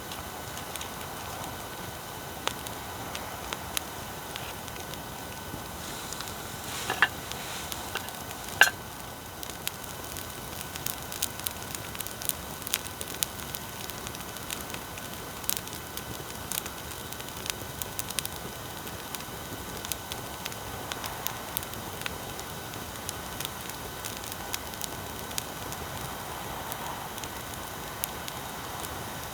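Wood bonfire burning, crackling with scattered sharp pops, two louder ones about seven and eight and a half seconds in, over a steady hiss of recording noise.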